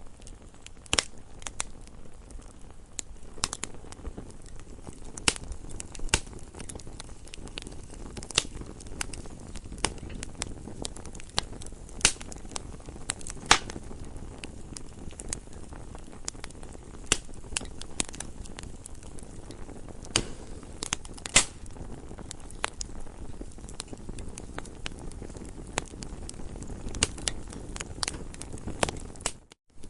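Wood campfire crackling: irregular sharp pops and snaps over a low, steady rush of burning. The sound drops out for an instant near the end.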